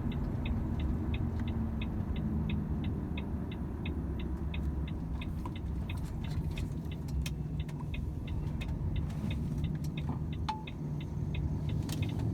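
Steady engine and road rumble inside the cab of a Volvo FH 500 truck, with the turn indicator ticking evenly at about three clicks a second; the ticking stops shortly before the end.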